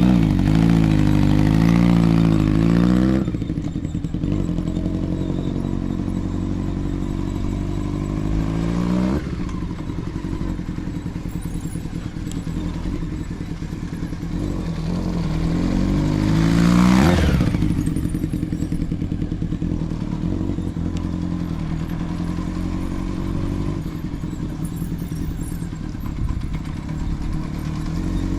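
Honda CBX750F's air-cooled inline-four running through a Yoshimura Cyclone 4-into-1 short exhaust as the bike is ridden. It is loudest about 17 seconds in, where the note sweeps past with a sharply falling pitch, and runs steadily at a lower level between passes. The seller describes the engine as free of abnormal noise.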